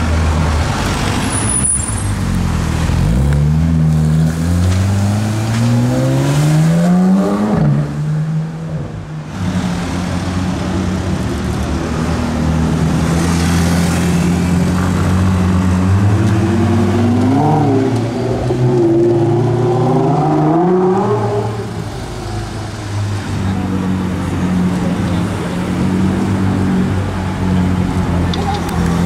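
Sports car engines at low speed. One engine note climbs through rising revs a few seconds in, settles into a steady note, then revs up and down several times about two-thirds of the way through before going steady again.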